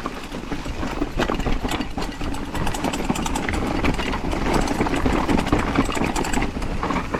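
Mountain bike descending a rough, steep trail: continuous tyre noise with dense rattling and clattering of the bike over the ground.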